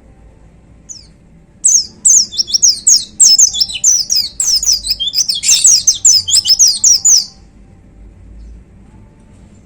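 White-eye (pleci, Zosterops) singing: a single short note about a second in, then a fast, unbroken run of high, sharp, downward-sweeping notes lasting about five and a half seconds.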